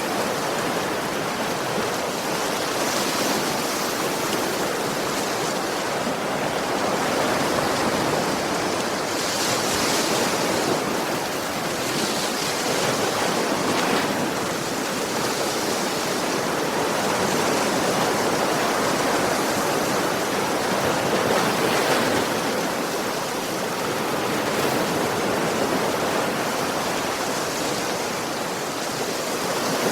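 Sea waves washing onto a shore: a continuous rush of surf that swells and eases every few seconds.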